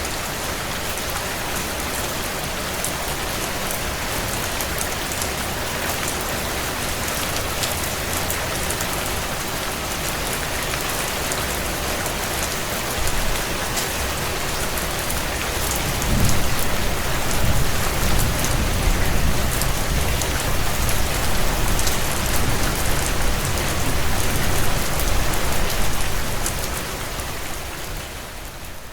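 Steady heavy rain on window glass, with the faint fine crackle of a wood fire in a fireplace. About halfway through, a low rumble like distant thunder swells in and lasts about ten seconds, and the sound fades down near the end.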